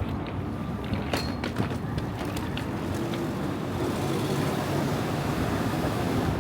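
City street traffic: vehicle engines running steadily, with a few sharp clicks about a second in and a rushing noise that swells from about four seconds in.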